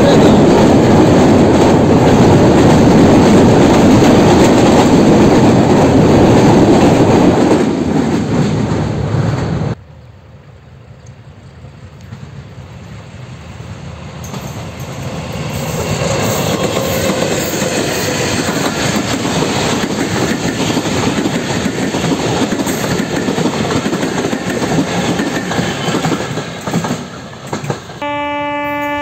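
A passenger train passes close by with loud wheel clatter and rumble, which cuts off suddenly about ten seconds in. Quieter train clatter then builds up steadily. Near the end a diesel locomotive's horn sounds, a steady multi-note blast.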